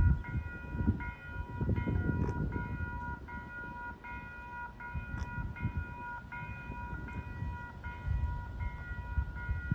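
Railroad grade-crossing bell ringing steadily, just under two strokes a second, with the crossing signals active for an approaching train. An uneven low rumble runs underneath.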